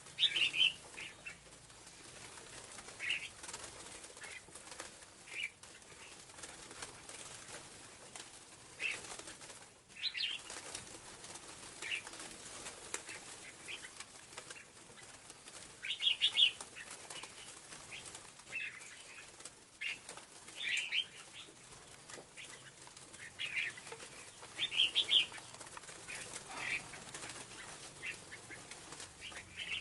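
Scarlet-backed flowerpecker calling: short, sharp, high-pitched notes in brief clusters at irregular intervals, the loudest bunches near the start and in the second half.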